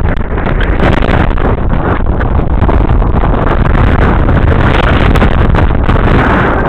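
Loud, steady wind buffeting on the microphone, a fluttering rush of noise with no clear engine tone.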